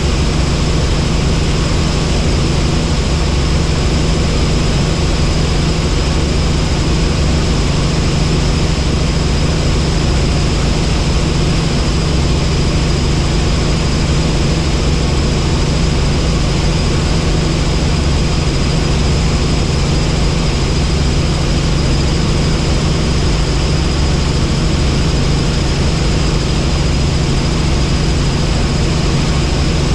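Helicopter in flight: steady, loud engine and rotor noise, a low drone with a thin high whine over it, unchanging in level.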